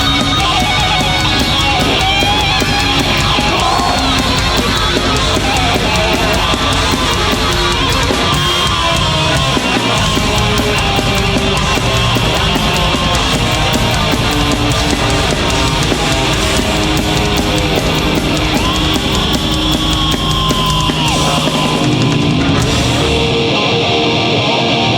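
Heavy metal band playing live and loud: distorted electric guitars with bending lead lines over bass and a drum kit. The sound thins out near the end.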